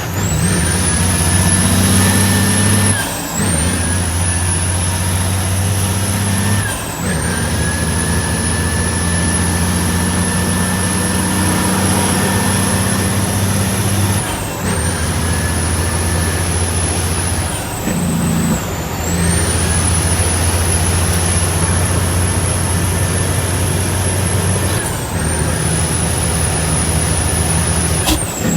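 Heavy diesel truck engine pulling under load while the driver works through the gears. About five times the engine note breaks off briefly and comes back, and each time a high whine drops and rises again with it.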